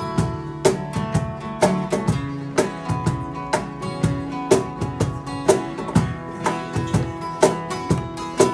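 Live folk-rock band playing an instrumental passage without vocals: strummed acoustic guitar over a steady beat, with a strong hit about once a second.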